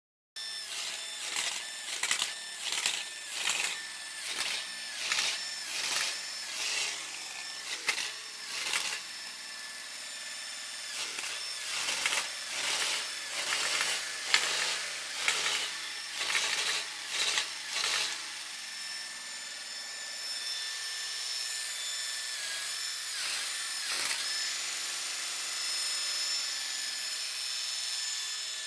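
Chevrolet Opala Caravan's engine running loud, revved in quick repeated blips about once a second for the first eighteen seconds or so, with a short pause about nine seconds in, then held at a steadier speed.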